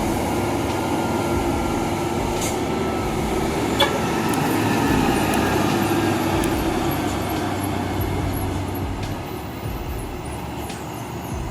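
A heavy vehicle's diesel engine running steadily, with a single sharp metallic knock about four seconds in.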